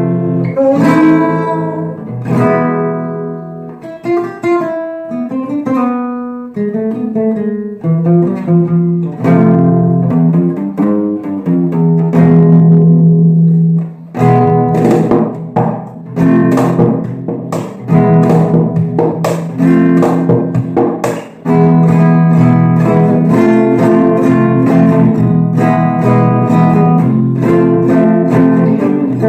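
Instrumental break of a flamenco-style song: acoustic guitar playing plucked melodic runs, turning about halfway through to hard, fast rhythmic strumming.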